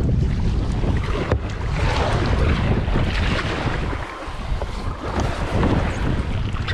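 Strong wind buffeting the microphone as a kayak comes in to land, with water splashing and sloshing around the hull.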